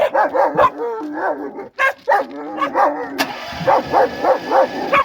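Dogs barking and yipping excitedly in quick, repeated calls, mixed with whining.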